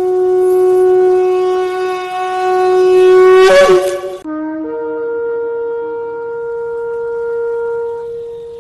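Shofar sounding two long, steady blasts. The first swells in loudness and cracks upward to a higher note before breaking off about four seconds in. The second starts low, steps up to a higher note and is held, fading near the end.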